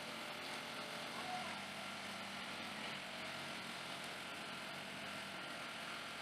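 Faint, steady hum of idling vehicle engines, with no distinct events.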